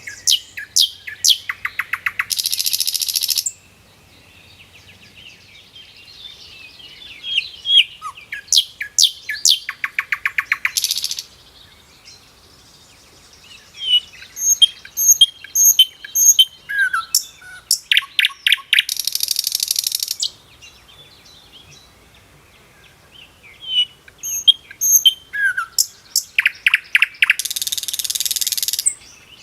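A songbird singing the same kind of phrase four times, several seconds apart. Each phrase is a run of sharp notes that speeds up and ends in a buzzy trill.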